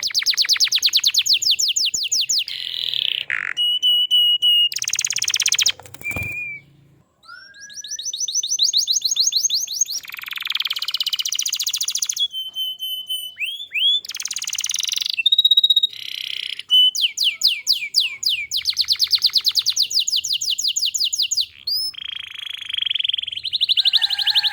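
Domestic canary in full, continuous song: fast rolling trills of rapidly repeated high notes, broken by held whistled tones and short chirps, with a brief pause about six seconds in.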